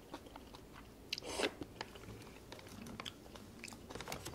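Close-up eating sounds: chewing a mouthful of tteokbokki noodles and rice, with many small wet mouth clicks. There is one louder noisy mouth sound about a second in, and a quick run of clicks near the end.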